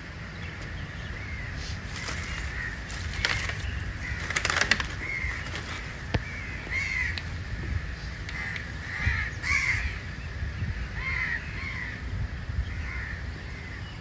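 Several birds calling: short rising-and-falling notes repeated every second or so, broken by a few louder, harsh calls, over a low steady rumble.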